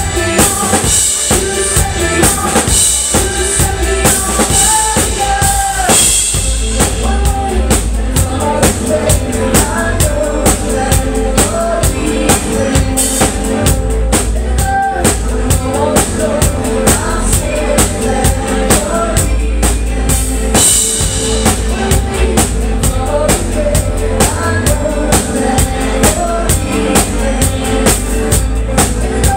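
Live band playing a pop-rock song, with a drum kit keeping a steady, driving beat of kick and snare under bass and melodic lines.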